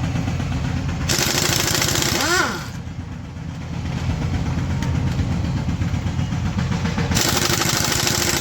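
Pneumatic impact wrench run in two bursts of a second and a half to two seconds, each a loud hiss of air that ends with the tool's pitch rising and then dropping away as it winds down. A steady low rhythmic rumble runs underneath.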